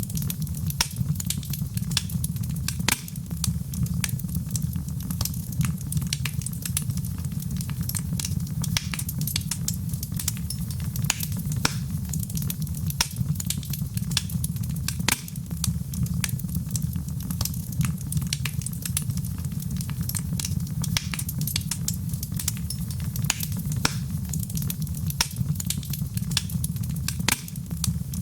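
Fire crackling in a fireplace: many irregular sharp pops and snaps, several a second, over a steady low rumble of the flames.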